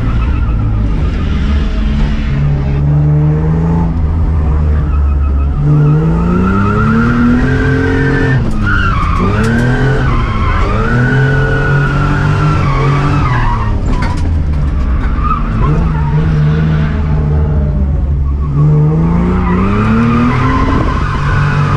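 Barra-swapped Nissan R31 Skyline drift car: its Ford Barra inline-six revs up and down again and again as it drifts, with tyre squeal wavering over the engine.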